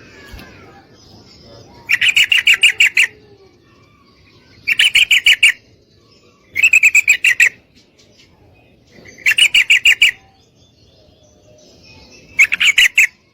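Female yellow-vented bulbul calling: five bursts of rapid, evenly pulsed chattering notes, each about a second long and a few seconds apart, a call meant to draw a male.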